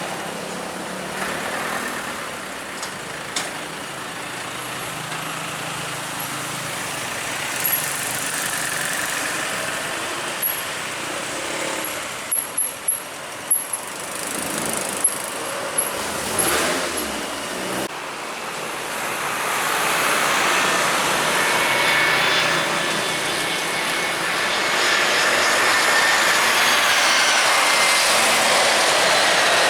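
Jet airliner engines at an airport, growing louder through the second half with a thin whine over the rush. Before that, a steady background drone with a run of short, sharp high ticks about halfway through.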